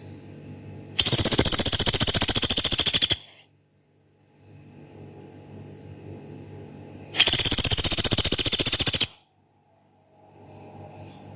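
A pelatuk beras woodpecker gives two long, harsh, rapid rattling calls of about two seconds each, the first about a second in and the second past the middle. Each is a fast, even run of many sharp notes.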